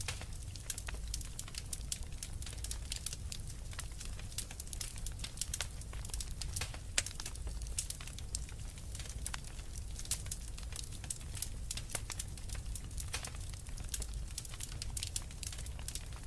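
Wood fire burning in a fireplace, with many quick, irregular crackles and pops over a low rumble of flames.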